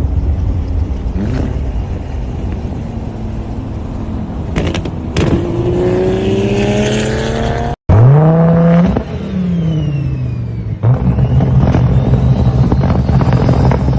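Performance car engines in a run of short clips: one engine revs up with the pitch climbing, with a few sharp cracks along the way. Then, after a sudden cut, there is a quick rev that rises and falls, and after a second cut a steady engine note.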